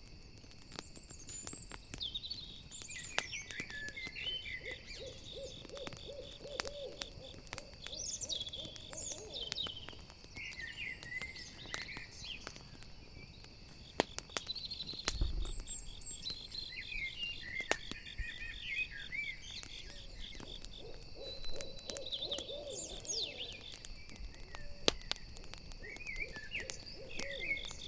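Owl hooting in long, wavering trilled series, several times, over a steady pulsing chorus of crickets. Sharp crackles from a campfire pop throughout, with scattered higher chirps.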